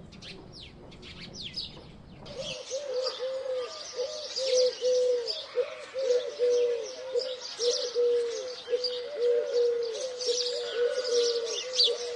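Sparrows chirping, sparse at first. About two seconds in the sound changes abruptly to a louder, dense chorus of chirps over a low pitched call repeating over and over.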